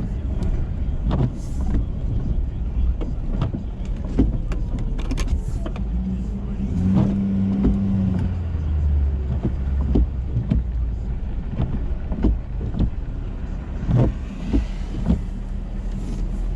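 Ford F-350 pickup running, heard from inside the cab: a steady low engine and road drone with scattered clicks and knocks, and a brief steady hum about halfway through.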